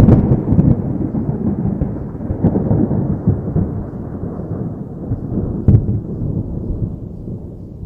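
Thunder rumbling and slowly fading after a close strike, with two sharper cracks, one about two and a half seconds in and one near six seconds.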